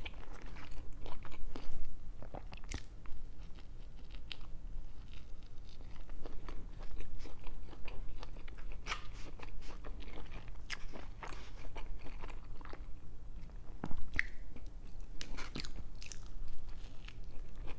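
Close-miked chewing and biting of crunchy food: irregular crunches and mouth clicks, with a louder bite about fourteen seconds in.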